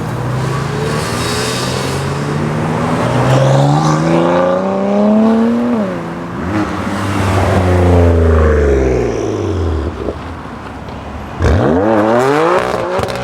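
BMW M cars accelerating hard one after another. Their engines rev up through the gears, with a sharp drop in pitch at a shift. One engine's note falls away as it passes, and another car comes in suddenly loud, revving up near the end.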